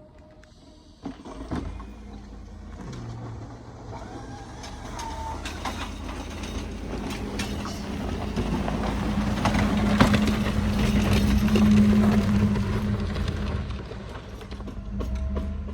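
A motor vehicle's engine running with a steady hum, growing louder to a peak about two-thirds of the way through, then easing off, with scattered clicks and knocks over it.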